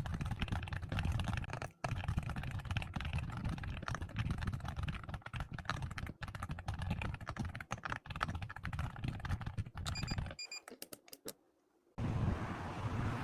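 Fast typing on a computer keyboard, a dense steady clatter of keystrokes for about ten seconds. Near the end, a couple of short high electronic beeps sound and the typing stops. After a brief hush, a steady rushing noise starts in the last second.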